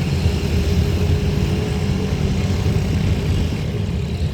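Train running past with a steady, loud low rumble and a faint constant hum above it.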